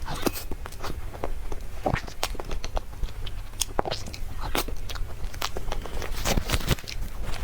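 Close-miked eating sounds of someone eating dessert: irregular clicks and smacks of biting and chewing, over a steady low hum.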